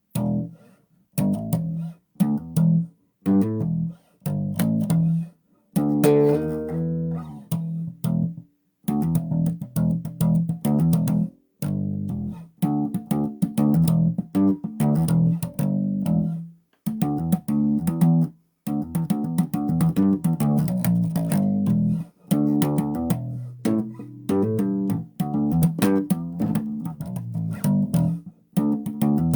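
Bass guitar being played solo: plucked low notes and short riffs that stop abruptly again and again, with brief gaps between phrases. About six seconds in comes a brighter run of higher notes.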